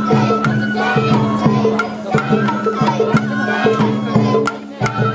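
Sawara-bayashi festival music played on the float: a high flute holding long notes over evenly paced taiko drum strikes.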